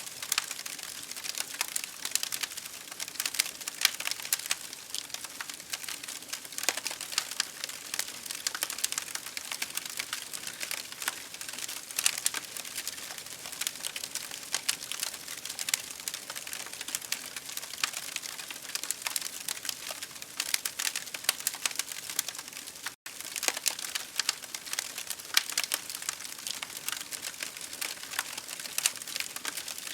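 Campfire crackling: dense, irregular pops and snaps of burning wood over a steady hiss. The sound cuts out for an instant about two-thirds of the way through.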